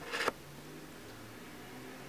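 A brief rustle right at the start, then quiet room tone with a faint steady hum.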